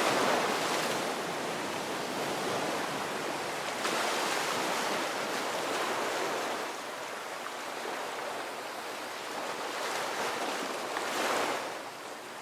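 Ocean surf breaking and washing up a beach: a continuous rush of water with louder swells as waves break near the start, about four seconds in and about eleven seconds in.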